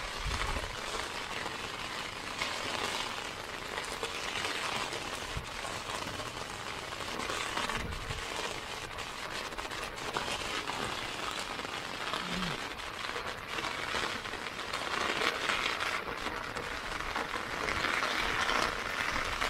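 Heavy rain falling steadily, an even hiss, with a few brief low thumps now and then.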